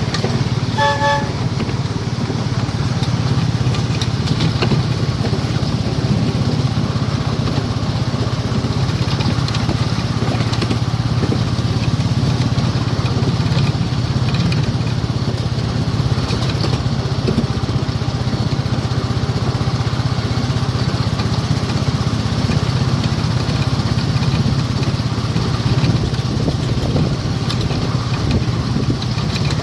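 Miniature railway locomotive engine running steadily under way, with one short toot of its horn about a second in.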